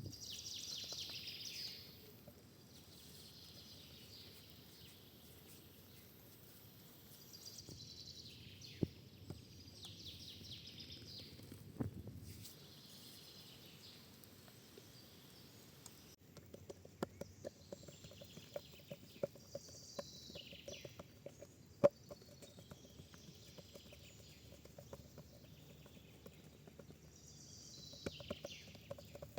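Wild birds calling, short falling calls repeated every few seconds, over a faint outdoor background. In the second half, scattered sharp clicks and ticks come in, with one louder snap a little past the middle.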